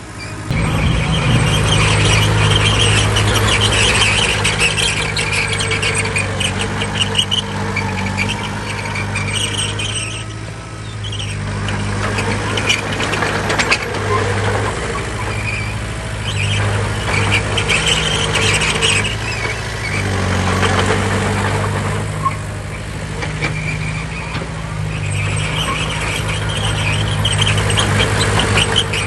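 Bulldozer's diesel engine working steadily under load, with a high squealing from the machine that comes and goes several times.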